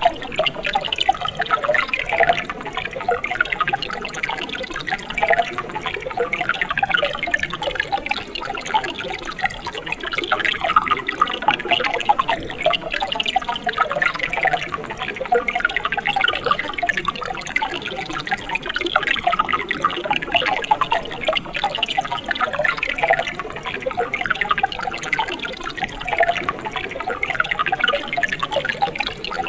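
Mountain stream running steadily, water splashing and gurgling over rocks in a continuous, busy rush.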